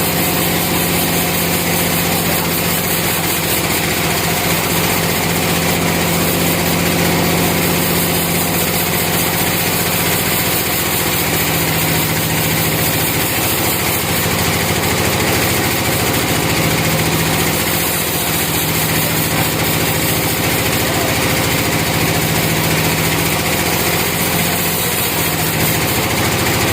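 Small petrol engine of a portable sawmill running steadily at an even speed.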